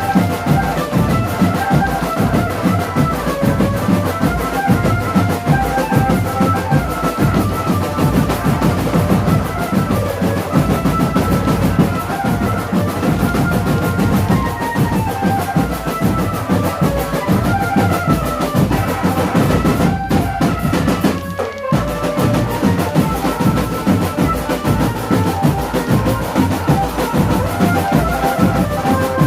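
Marching drum band playing: snare and bass drums with drum rolls keep a dense, steady beat under a stepping melody line. The sound thins out briefly about two-thirds of the way through.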